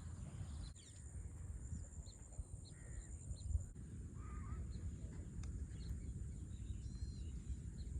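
Birds calling now and then over a steady high-pitched insect drone in farmland, with a low rumble underneath.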